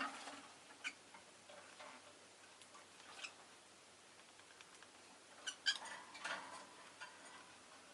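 Pet rosy-faced lovebird making scattered short clicks and a few soft, brief chirps, with the loudest cluster a little past the middle.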